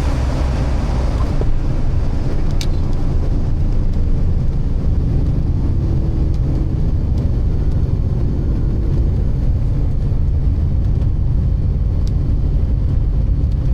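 Beechcraft Baron G58's twin six-cylinder piston engines running with a steady, low drone. Two faint clicks come through, one a little over two seconds in and one about twelve seconds in.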